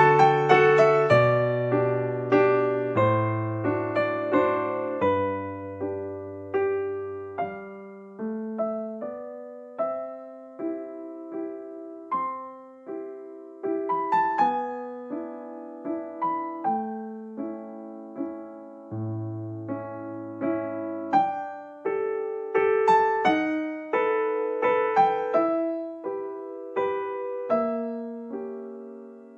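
Background music: a slow, gentle piano piece, single notes struck one after another over held bass notes.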